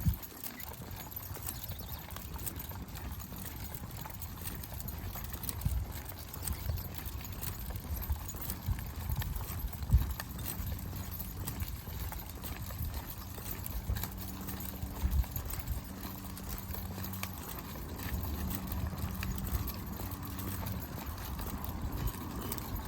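Footsteps of a person walking a dirt trail at a steady pace, with low irregular thumping on the microphone.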